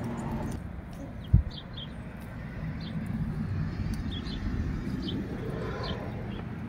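Small birds chirping in short, repeated high calls over a steady low background rumble, with one dull thump about a second and a half in.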